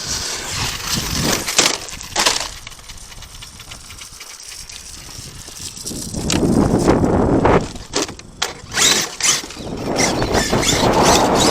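ARRMA Kraton 8S RC monster truck driving over a dirt and gravel lot: tyres scrabbling, with scattered knocks and clatters, and louder running in the second half.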